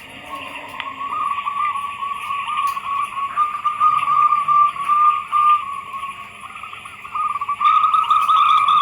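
Zebra doves cooing: rapid strings of short, repeated notes that overlap as if from several birds, growing louder near the end.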